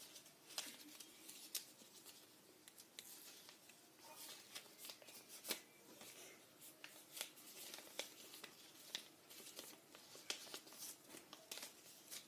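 Scrap paper being folded in half and creased by hand: faint, irregular rustles, crinkles and small clicks of the sheet.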